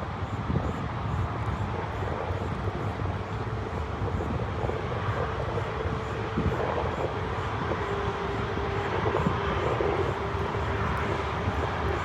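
Jet engines of a landing Boeing 747: a steady roar, with a steady whine that comes in about four seconds in.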